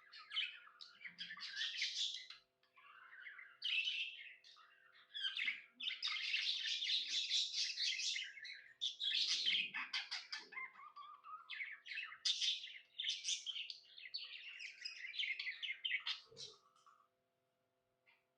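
Budgerigar chattering and warbling in a busy run of quick chirps and twittering, falling silent near the end.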